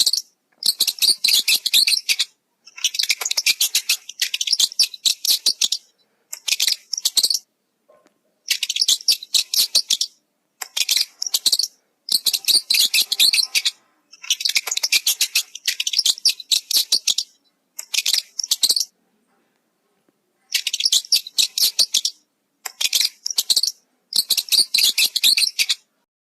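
High, rapid chattering calls from a small animal, in repeated bursts of one to two seconds with short silent gaps between them.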